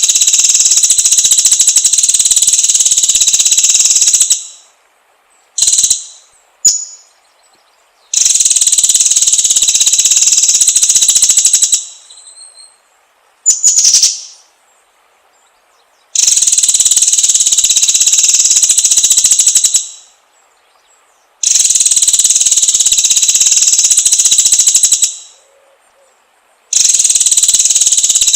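White-rumped shama (murai batu) lure song: long, very rapid, high-pitched rattling trills of about four seconds each, five in all, separated by short pauses with a few brief sharp notes.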